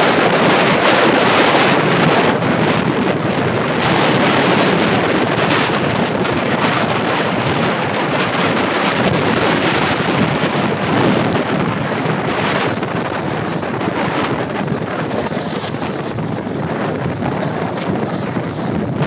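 Loud, steady rushing noise of a jet airliner's engines and airflow heard inside the cabin during a landing in high wind. It eases a little and turns duller from about twelve seconds in, as the aircraft slows.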